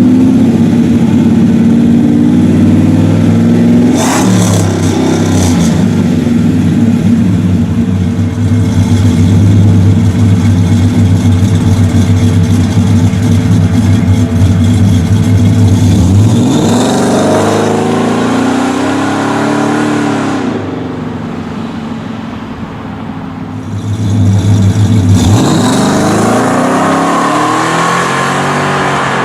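Cammed 6.2L V8 pickup exhaust through long-tube headers, no cats and a three-chamber Flo-Pro true dual system, running loud with a heavy, choppy tone for the first half. It then revs twice in the second half, the pitch climbing and falling each time, with a brief sudden noise about four seconds in.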